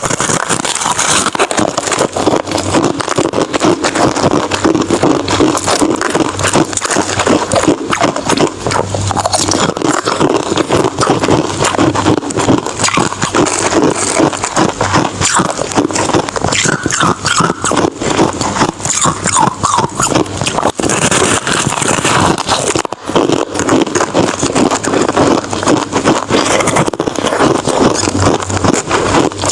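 Ice being chewed close to the microphone: continuous, dense crunching with no pauses.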